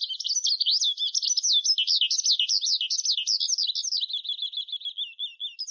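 Bird song: a rapid, unbroken run of high chirps and warbles that sweep up and down in pitch, dropping a little lower for a moment near the end.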